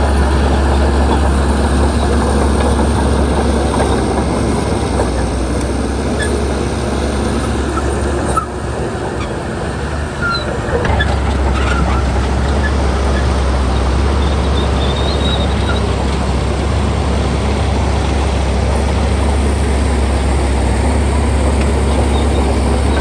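Shantui bulldozer's diesel engine running with a steady low drone, easing off briefly about eight seconds in and picking back up a couple of seconds later.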